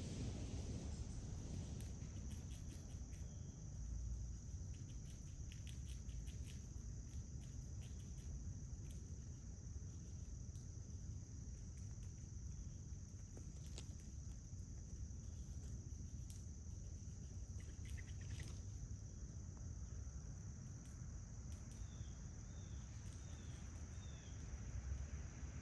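A steady, unbroken high-pitched insect trill, such as crickets, over a low outdoor rumble, with scattered faint clicks. Near the end come four short, falling bird chirps in quick succession.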